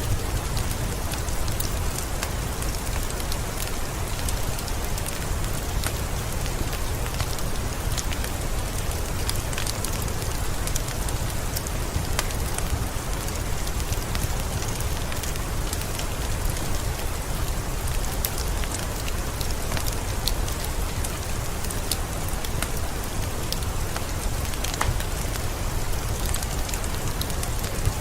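Steady rain mixed with a wood fire crackling: an even hiss with a low rumble beneath, dotted with scattered sharp pops.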